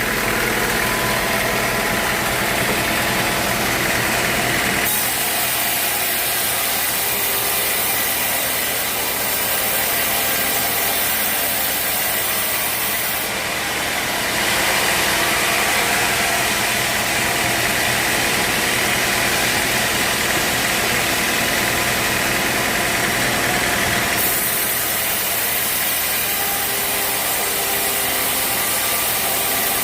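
Sawmill machinery running steadily, an engine with a saw working through wood. The sound changes abruptly about five, thirteen and twenty-four seconds in.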